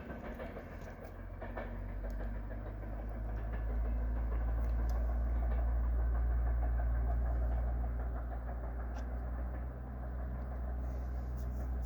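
Passenger train hauled by an EP09 electric locomotive running: a steady low rumble that builds over the first few seconds, with a few faint clicks.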